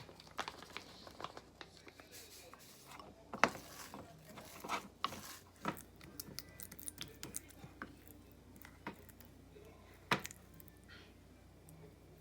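Kitchen handling sounds during food preparation: scattered light clicks and knocks with some crinkling of packaging, the sharpest knocks about three and a half, six and ten seconds in.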